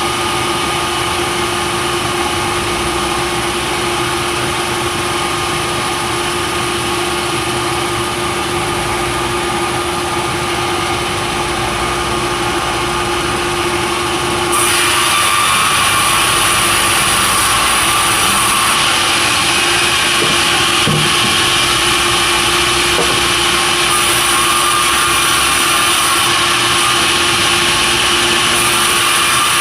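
Sawmill saw running steadily with a constant hum. About halfway through it grows louder and hissier, as the blade starts cutting into the timber, and it stays at that level.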